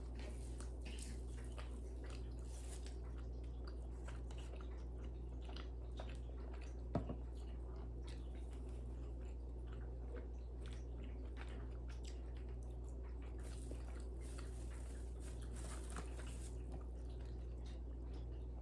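Close-miked chewing and biting, with small wet and crunchy mouth sounds coming at irregular moments and one sharper click about seven seconds in, over a steady low hum.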